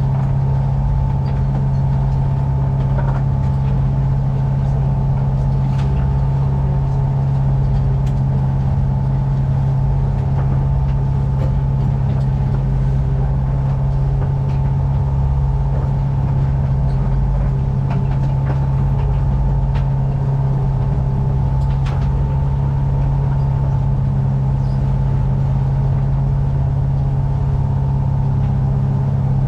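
A yacht's inboard engine running at a steady speed, a constant low drone with a hum on top that does not change.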